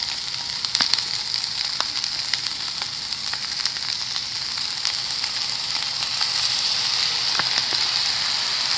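Fried noodles sizzling in a hot pan with sweet soy sauce: a steady hiss with many scattered crackles and pops.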